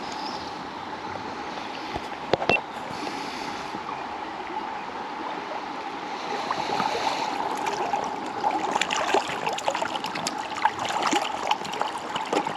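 A river running over stones, a steady rush of water, with two sharp knocks about two seconds in and a spell of irregular splashing and crackling in the second half.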